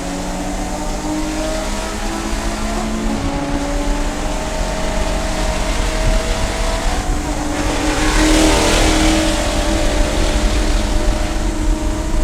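Race car engine running hard, its pitch climbing slowly as the car accelerates. About eight seconds in there is a rush of noise.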